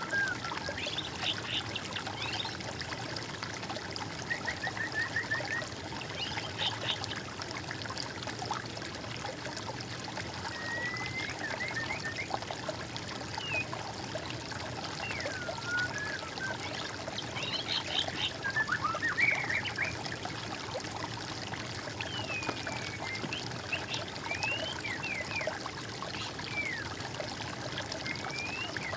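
Small songbirds singing, short whistled phrases and fast trills scattered through, over the steady trickle of running water.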